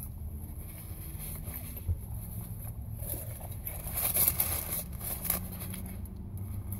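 A parked car's engine idling, heard from inside the cabin as a steady low hum. Some louder rustling and mouth noises come and go around the middle.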